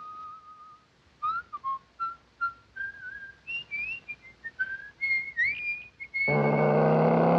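A cartoon soundtrack whistle playing a wandering tune of short notes and little pitch slides. Near the end a louder, fuller held sound joins the last whistled note.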